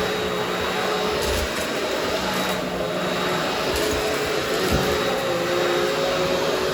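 Vacuum cleaner running steadily as it is pushed over carpet, a constant motor noise with a steady whine, and a few low knocks.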